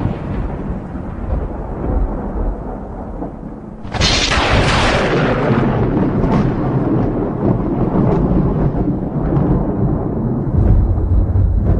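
Thunder in a rainstorm: a rumble dies away over the first few seconds, then a sharp crack about four seconds in breaks into a long rolling rumble that swells again near the end.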